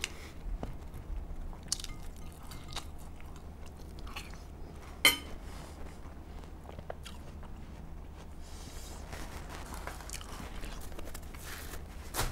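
Close-up chewing and biting of food, with scattered light clicks of a fork and plates; one sharper click about five seconds in.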